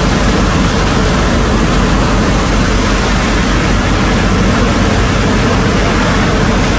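Sand-pumping engine running steadily under load, with a loud, even rushing noise of water and sand over it.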